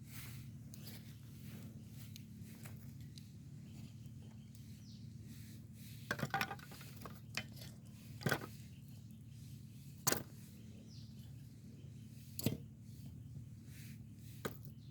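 A few sharp clinks and knocks, a short cluster about six seconds in, then single ones every second or two, over a low steady hum.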